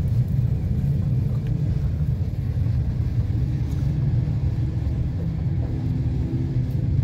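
Passenger train carriage running along the track, heard from inside the compartment: a steady low rumble of wheels and running gear. A faint steady hum joins in about five and a half seconds in.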